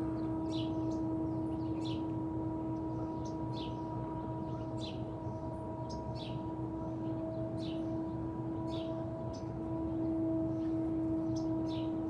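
A steady droning tone of unexplained origin, one pitch with a couple of higher overtones over a low hum, heard outdoors and growing slightly louder near the end. Short high bird chirps repeat about once a second over it.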